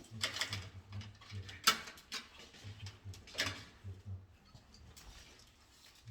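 Handling noises: a few sharp scraping clicks, three of them louder than the rest, over a low hum that comes and goes.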